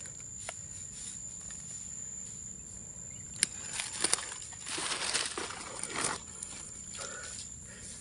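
A steady high-pitched insect drone, with a few sharp clicks and about a second and a half of rustling in dry leaf litter around the middle.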